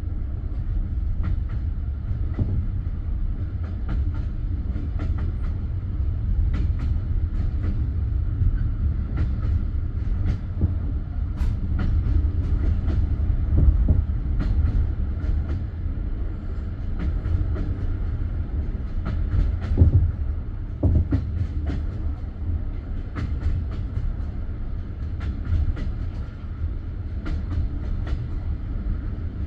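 Passenger train carriage sounds: a steady low rumble with irregular clicks and knocks, a few louder ones near the middle and about two-thirds through.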